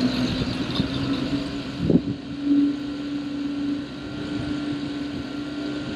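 Refuelling equipment running steadily, a constant machine hum while fuel is pumped into a light aircraft, with a single knock about two seconds in.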